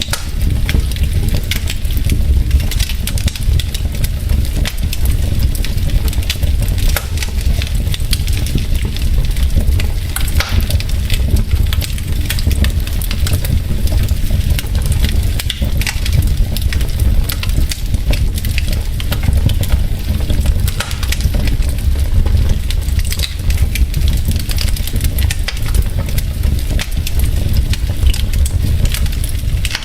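Wood fire in a fireplace crackling, with frequent sharp snaps and pops of burning logs over a steady low rumble.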